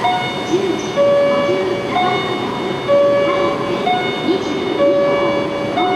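Two-note electronic chime at a railway station: a short higher note, then a longer lower one, repeating about every two seconds over steady station noise.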